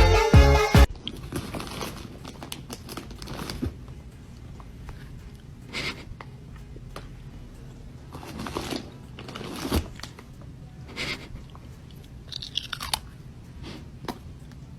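An animal chewing something crunchy, with irregular louder crunches a second or two apart.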